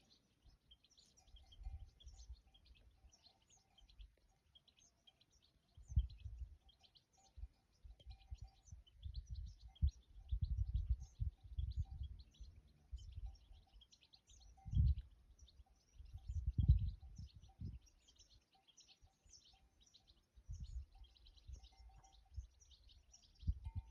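Many small birds chirping continuously in a dense chorus of short, high calls. Irregular bursts of low rumble come and go over it and are the loudest sound, clustering in the middle of the stretch.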